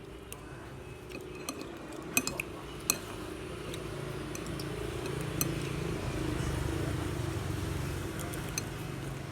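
Spoons and chopsticks clinking against noodle bowls, with a few sharp clinks about two to three seconds in. A low steady hum swells in the background through the second half.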